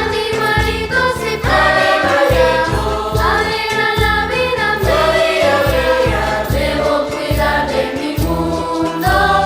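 Children's choir singing a huayno, with an accompaniment whose low notes pulse in a steady rhythm beneath the voices.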